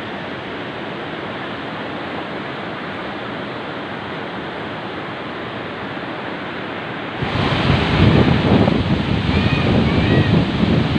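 Steady rushing outdoor noise. About seven seconds in it suddenly grows louder, with wind buffeting the microphone and a few short high chirps.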